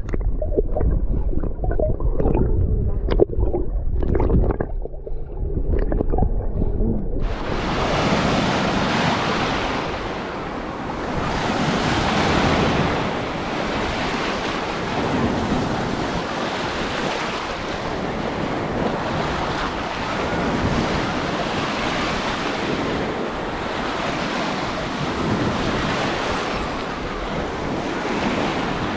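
Muffled sloshing and splashing of seawater. About seven seconds in, the sound suddenly opens up into a steady rush of sea surf, swelling and easing in slow surges, with wind buffeting the microphone.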